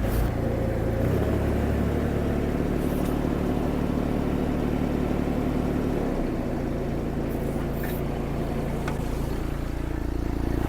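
Mini skid steer engine running steadily under throttle, its pitch shifting about a second in and again about six seconds in as the machine works.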